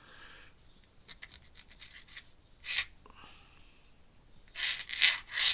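A flexible steel dip-pen nib working on paper: mostly quiet, with a few faint clicks and scratches, one short scrape almost three seconds in, and louder scratchy strokes near the end. The nib is not letting the ink flow.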